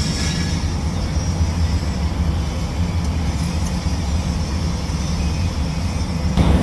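Steady low mechanical rumble with a hiss over it, from machinery running, growing a little louder near the end.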